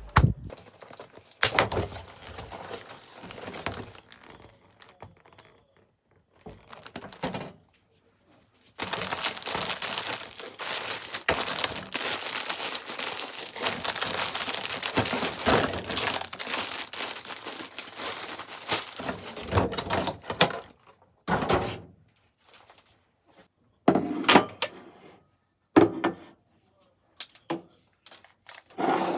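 Crinkling and rustling with scattered knocks and thuds, as of things being handled; a long stretch of steady rustling runs from about 9 to 20 seconds in.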